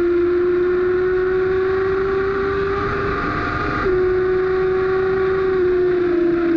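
Racing sport bike's engine held at high revs, heard onboard with a rush of wind, its note slowly climbing; about four seconds in the note breaks and drops slightly, then carries on.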